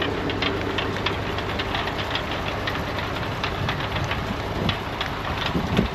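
International farm tractor engine running steadily, with irregular light clicking and rattling over the engine sound.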